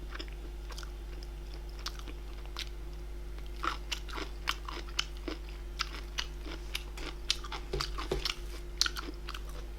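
A person chewing and crunching food close to the microphone: irregular crisp crunches and wet mouth clicks, over a steady low electrical hum.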